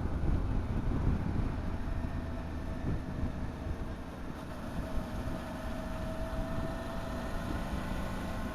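Motorcycle engine running at road speed under heavy wind rumble on the microphone; a faint engine tone swells and rises slightly about five seconds in, then settles.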